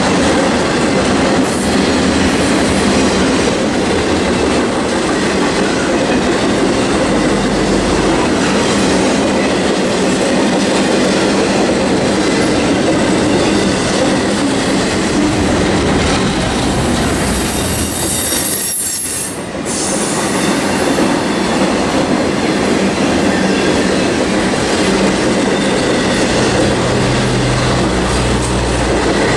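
Intermodal freight train's stack cars rolling past close by: a steady, loud rumble and clatter of steel wheels on the rails. A brief, faint high-pitched wheel squeal comes about two-thirds of the way through.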